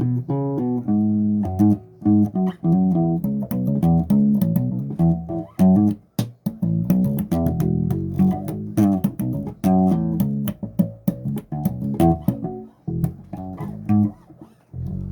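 Electric bass guitar played solo: a run of quick plucked notes and short phrases, with brief pauses about six seconds in and again near the end.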